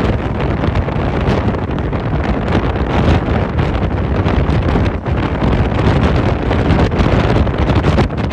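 Strong storm wind buffeting the microphone: a loud, steady low rumble with rapid flutter and no let-up.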